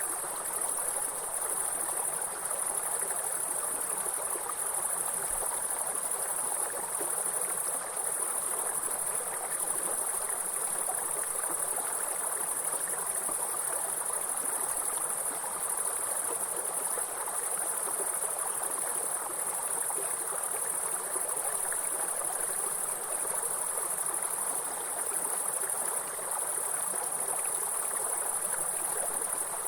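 A steady, high-pitched insect chorus over the even rush of flowing stream water.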